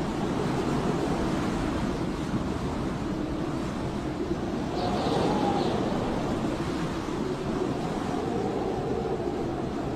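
Blizzard wind howling: a steady roar with a whistling tone that rises and falls in pitch, swelling about halfway through and again near the end.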